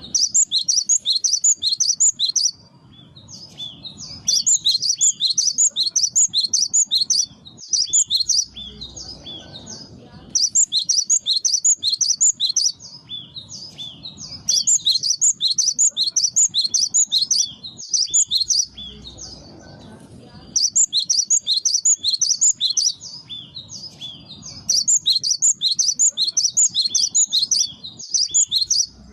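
Cinereous tit (gelatik batu) singing in repeated bursts of quick, high, ringing notes. Each burst lasts two to three seconds, with short pauses between, as in a bird-lure recording.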